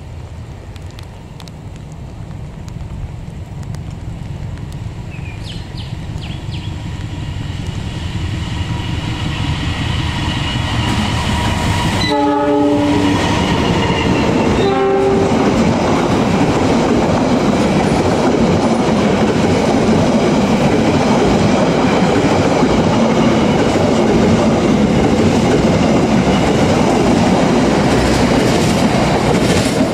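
Diesel-hauled express passenger train approaching and passing close by, growing louder over the first twelve seconds or so, then a steady loud rush of wheels on rail as the coaches go by. About twelve seconds in, the locomotive's horn sounds two short blasts about three seconds apart, a greeting to trackside railfans (signal 35).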